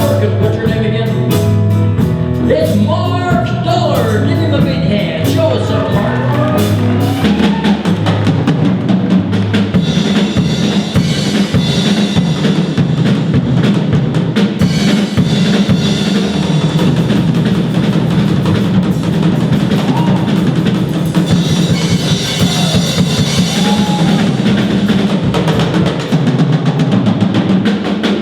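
Live drum kit solo: rapid hits on the kick, snare and cymbals, with the band's bass and guitar still playing for the first several seconds before the drums carry on mostly alone.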